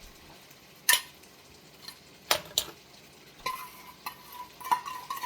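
A utensil stirring, knocking and scraping against an electric wok as chicken and vegetables fry with a faint sizzle. There are sharp knocks about a second in and twice around two and a half seconds, with smaller clicks and a faint steady ringing tone in the second half.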